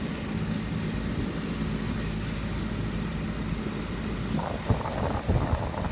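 York central air conditioner outdoor unit running: a steady low hum with fan noise over it. A few brief bumps come about four and a half seconds in.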